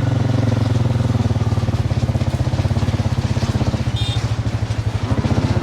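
Tractor engine running steadily with a fast, even pulse. A brief high chirp sounds about four seconds in.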